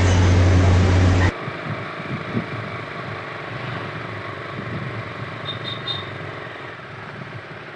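Motorcycle riding, loud wind rush on the microphone, that cuts off abruptly just over a second in, giving way to a quieter, uneven low rumble.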